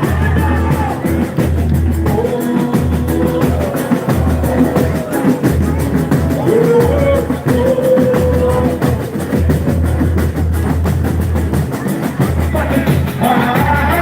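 Boi-bumbá toada played live by a band with heavy drums and a steady beat, with a voice singing the melody over it.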